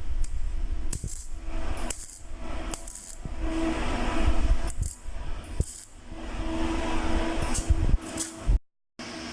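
Yamaha R15 v3 single-cylinder motorcycle with an aftermarket M4 exhaust being ridden, its engine note under heavy wind rumble on the microphone. The sound cuts out briefly near the end.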